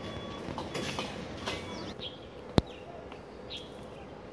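A bird chirping repeatedly, short calls about a second and a half apart, over a steady hush of outdoor background noise. A single sharp click about halfway through is the loudest sound.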